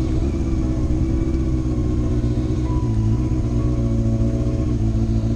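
Honda motorcycle engine running steadily at low road speed. Its note shifts once, about three seconds in.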